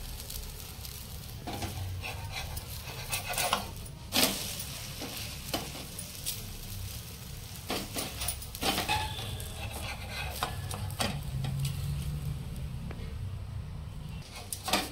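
Uttapam batter frying in oil on a flat pan with a steady sizzle. A metal spatula scrapes and taps against the pan several times, loudest about four seconds in, as the uttapam is flipped and folded.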